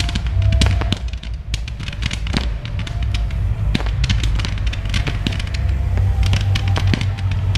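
Fireworks going off in quick succession: a dense run of sharp bangs and crackles over a constant low rumble.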